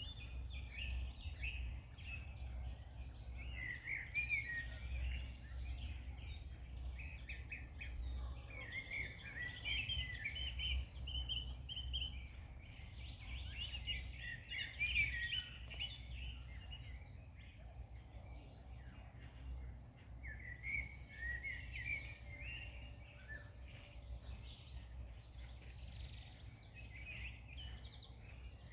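Several small songbirds singing and chirping in overlapping bursts, thinning out for a few seconds about two-thirds of the way through, over a steady low rumble of outdoor background noise.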